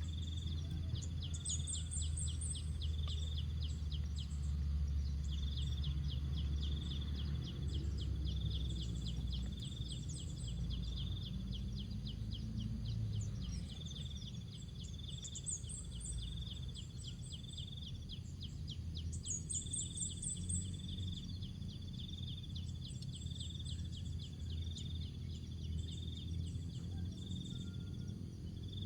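Insects chirping in a steady pulsing rhythm while small birds give short high twitters now and then, over a constant low rumble.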